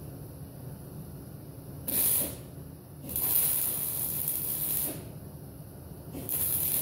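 Welder laying three short bursts of weld on a jeep body patch panel: a brief one about two seconds in, a longer one of about two seconds, and another near the end, each a harsh hiss.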